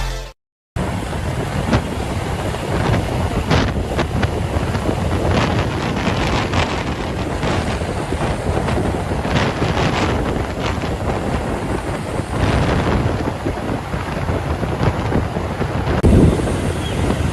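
Steady highway traffic noise with wind rushing over the microphone, and a few short knocks and rattles from passing vehicles.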